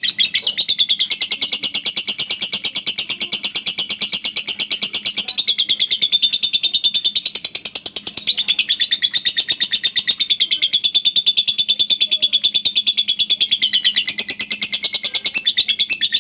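Lovebird giving a long 'ngekek': a shrill, very rapid chatter of repeated high notes, kept up without a break.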